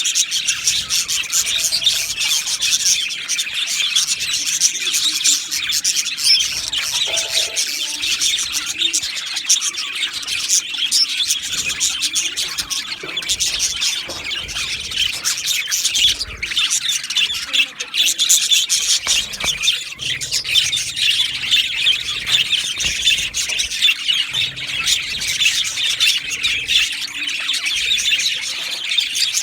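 Many budgerigars in an aviary chirping and chattering at once: a dense, continuous twitter of quick high chirps with no break.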